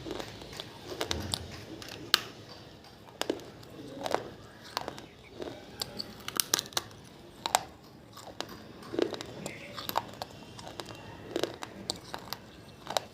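Pieces of a fired clay diya, soaked in water, being bitten and chewed, with sharp, irregular crunches.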